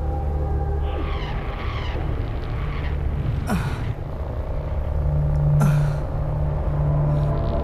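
Suspense film soundtrack: a low sustained drone with held tones, falling swept tones about a second in, and two sudden whooshing hits that drop in pitch, about three and a half and five and a half seconds in.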